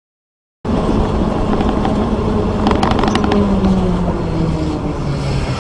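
Vehicle engine and road noise. It starts abruptly after a moment of silence, and the engine note falls slowly in pitch. A few light clicks come around the middle.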